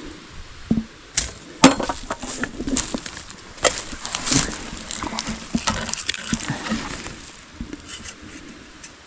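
Clattering and rustling among brush and old discarded bottles and cans: a run of sharp clicks and knocks lasting about six seconds, then quieter near the end.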